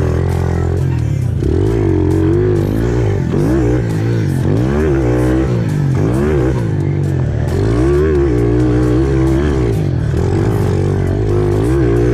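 Pit bike engine revving up and down over and over, its pitch rising and falling, over background music with a steady bass line.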